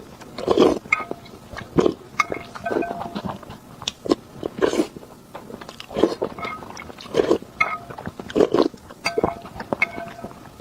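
Close-up eating sounds: wet chewing, lip-smacking and sucking in irregular bursts about once a second, with sharp clicks between them.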